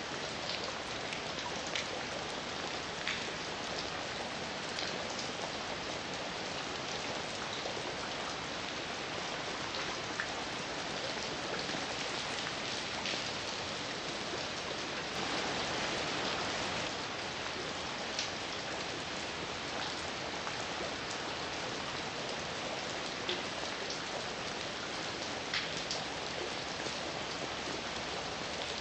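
Steady heavy rain falling on a surface, an even hiss with distinct drops ticking through it, swelling slightly about halfway through.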